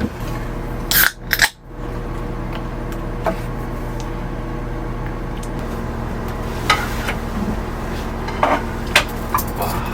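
Dishes and cutlery clinking and knocking a few times over a steady low hum.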